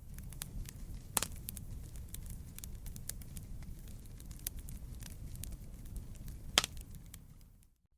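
Burning wood crackling in a campfire: a steady low rumble of flame under many small snaps, with two louder pops, one about a second in and one near the end. The fire sound fades out briefly at the very end.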